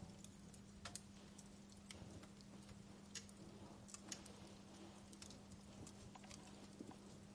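Wood fire crackling in a fireplace: sparse, irregular pops and snaps, a few a second at most, over a faint steady hiss and a low hum.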